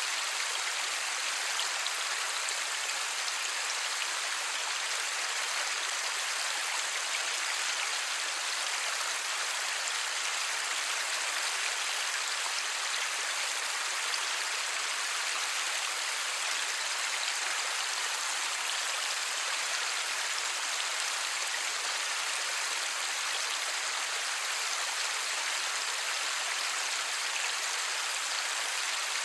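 Light, steady rain falling, an even hiss of many small drops with no thunder.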